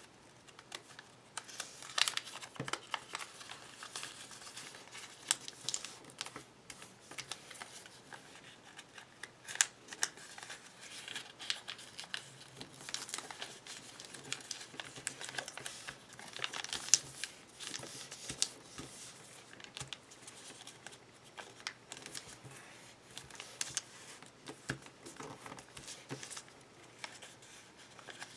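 A sheet of origami paper crinkling and rustling as it is folded and creased by hand, with irregular sharp crackles.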